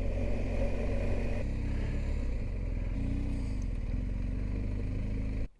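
Motorcycle engine running under way with wind and road noise, the engine note changing a couple of times. The sound cuts off suddenly near the end.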